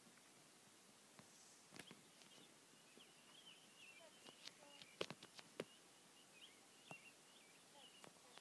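Near silence: a faint bird chirps continuously from about two seconds in, with scattered soft clicks and taps, a cluster of them around the middle.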